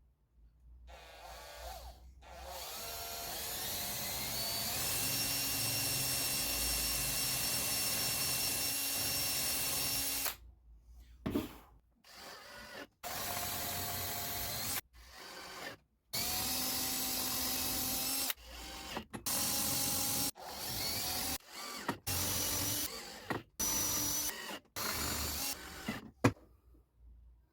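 Power drill running: one long run of about eight seconds that climbs in pitch as it spins up, then a string of short trigger bursts, each starting and stopping abruptly, as in driving screws.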